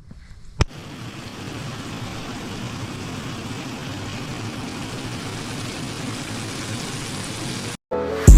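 A sharp click, then a steady rushing noise that cuts off abruptly near the end.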